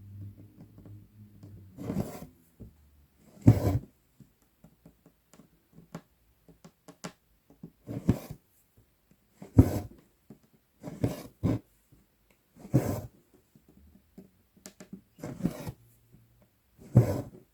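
Cross-stitch needle and floss being drawn through 11-count Aida fabric: a series of short scratchy swishes, roughly one every one to two seconds, with near quiet between strokes.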